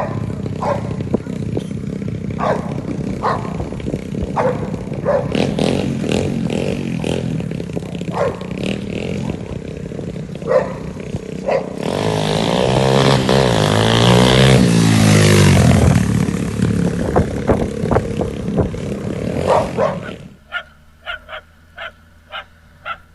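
Motorcycle engine running while a dog barks again and again. Near the end the engine noise drops away and a few short barks stand out against a quieter background.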